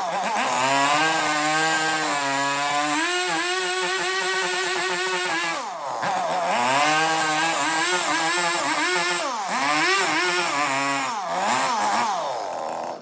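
Chainsaw cutting into wood, its engine pitch rising and sagging under load. It eases off briefly about six seconds in, then cuts off suddenly at the end.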